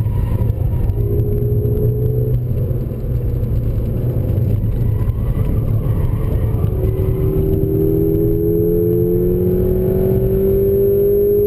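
Volkswagen Golf GTI Mk VI's turbocharged four-cylinder engine heard from inside the cabin under acceleration out of a corner and onto a straight, over steady tyre and road rumble. From about two-thirds of the way in, the engine note climbs slowly and steadily as the car gathers speed.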